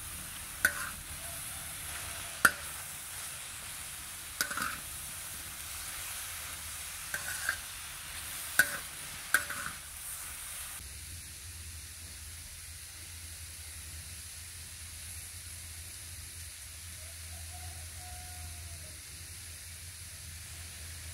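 Sliced mushrooms sizzling on a large flat metal griddle while a metal spatula stirs them, with about six sharp scrapes and clinks of the spatula on the pan over the first ten seconds. About halfway through, the sizzling and clinks cut off and a quieter, steady hiss remains.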